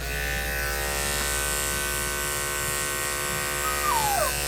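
Electric dog grooming clippers switched on and running with a steady buzz, used to shave a matted coat. A short falling whine comes near the end.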